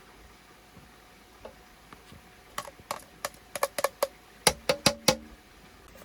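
A run of about a dozen sharp, irregular clicks and knocks, growing louder toward the end, where the last few ring briefly.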